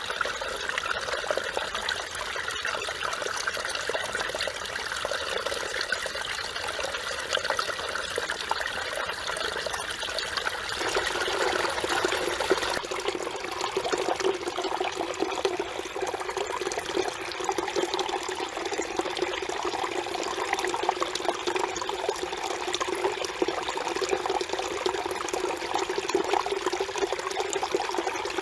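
Mountain stream water flowing and trickling over rocks, a steady rush. Its tone changes about twelve seconds in.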